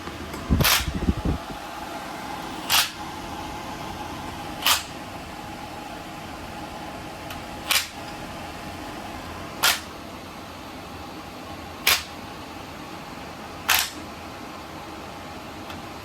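A heavy clunk of metal near the start, then short bursts of ratchet clicks about every two seconds as bolts are turned, over a steady fan hum.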